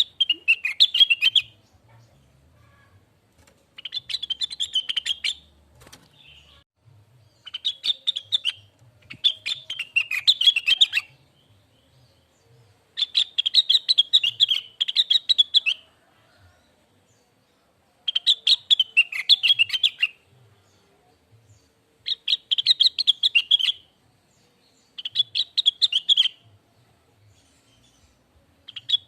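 Cucak wilis leafbird singing: repeated phrases of rapid, twittering chirps, each phrase a second and a half to three seconds long, with short pauses between them.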